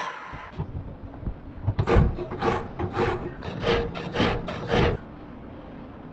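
Rasping strokes of a hand abrasive tool worked back and forth on the workpiece: about eight strokes at two to three a second, stopping about five seconds in.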